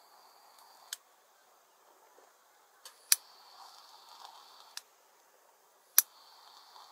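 A handful of sharp clicks, the two loudest about three seconds apart, over a faint steady high-pitched hum that drops out and returns at the clicks.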